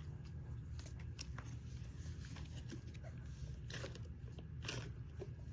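Faint crackles and small clicks over a low steady rumble, typical of a foam squishy toy being handled and squeezed close to the microphone.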